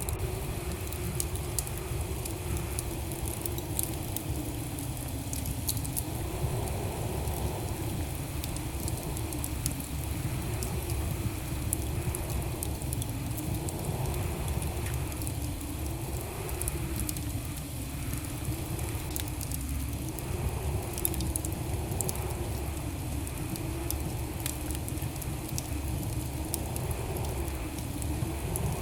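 Wood fire burning in a fireplace: a steady low rumble of the flames with scattered sharp crackles and pops, over a low wavering hum.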